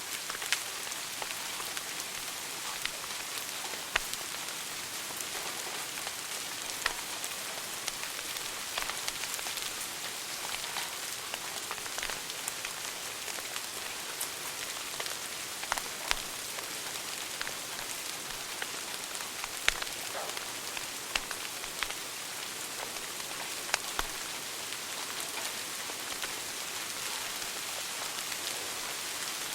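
Wood fire burning in a fireplace: a steady hiss with irregular crackles and a few sharper pops.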